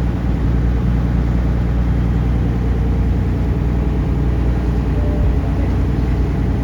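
Taxi boat's engine running steadily under way, a constant low drone with a rushing noise over it.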